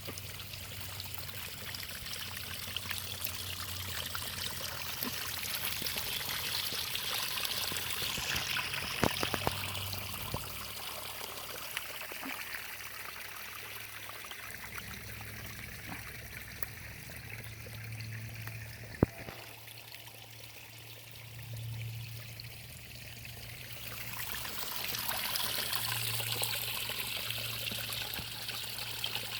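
Water trickling and running in a small creek: a steady splashing hiss that swells and fades. A few light clicks sound over it.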